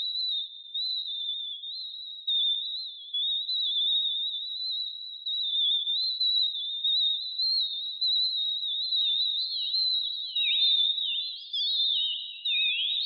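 Esoteric Synth app making synthetic birdsong: two pure-tone oscillators with randomly varied pitch, chirping in quick jittery steps around a high whistle-like pitch. From about nine seconds in, the pitch starts swooping in wider glides up and down.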